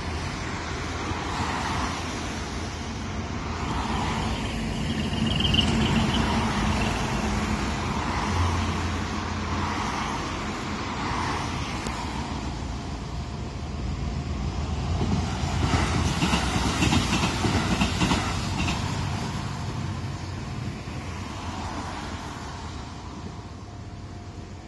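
Trains and road traffic at a busy four-track railway level crossing: a continuous rumble and rush of passing vehicles that swells a little about five seconds in and most strongly between about 15 and 19 seconds in, then eases off near the end.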